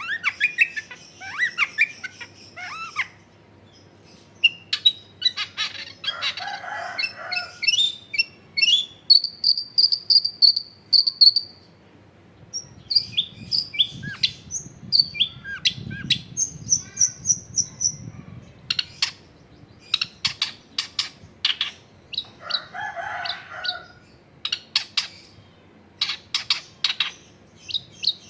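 Long-tailed shrike (cendet) in full song: a varied, chattering run of rapid sharp clicking notes mixed with clear high whistled phrases and short trills.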